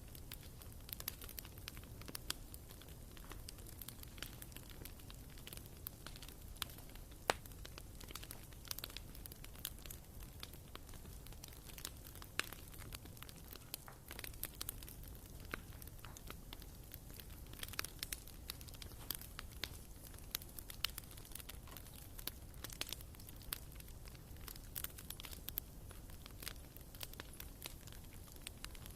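Wood fire crackling in a fireplace: irregular sharp pops and snaps from the burning logs over a faint low hiss, with one louder snap about seven seconds in.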